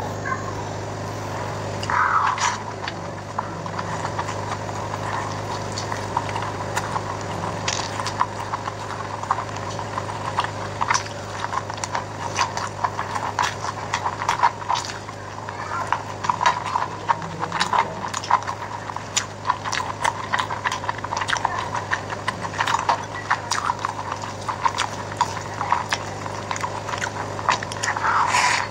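A person chewing a mouthful of biryani and chicken: many quick, irregular wet smacks and mouth clicks, over a steady low hum.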